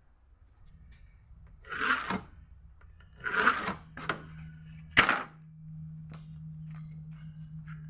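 Small electric grinder motor running with a steady hum, over which come two short harsh bursts and a sharp knock about five seconds in.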